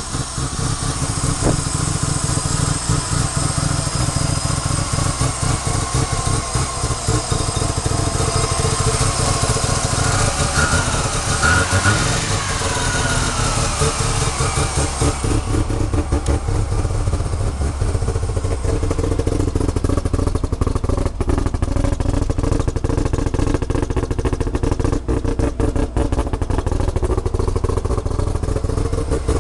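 Mazda RX-7's full bridge-ported rotary engine idling, loud and choppy with rapid, uneven pulses.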